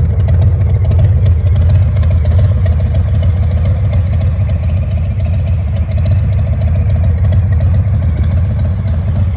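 Harley-Davidson Heritage Classic's Milwaukee-Eight 114 V-twin idling steadily through Rinehart exhaust, a deep even rumble.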